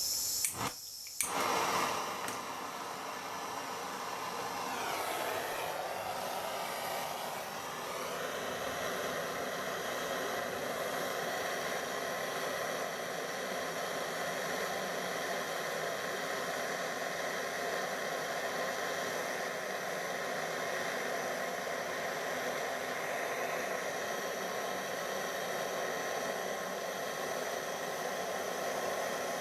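Gas blow lamp burning with a steady roaring hiss as it heats a silver-soldered joint between flexi pipe and exhaust manifold; the solder has not yet flowed. A couple of clicks come at the very start, and the flame's tone shifts a few seconds in before settling.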